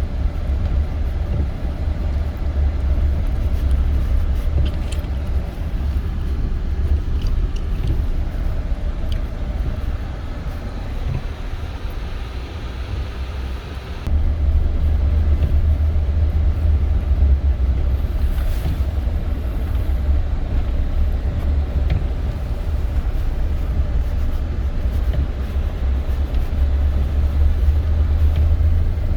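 Steady low rumble of a Toyota Tundra pickup's engine and tyres, heard from inside the cab while driving on snowy streets. The rumble eases for a few seconds near the middle, then comes back up abruptly.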